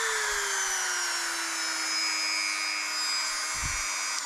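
Handheld 135-watt variable-speed rotary tool with a polishing bit, running free at high speed with nothing pressed against it. It makes a steady whine that slowly drops in pitch.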